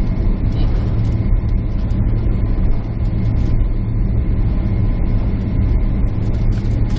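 Steady jet airliner cabin noise: a loud, even drone of engines and airflow with a deep hum underneath.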